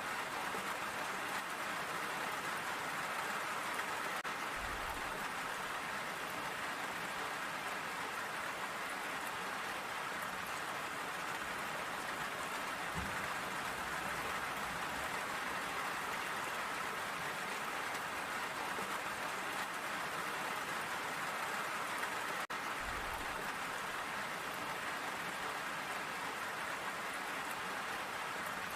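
Steady rain falling and pattering on surfaces, an even hiss with no let-up. A few brief low thumps sound through it, about 5, 13 and 23 seconds in.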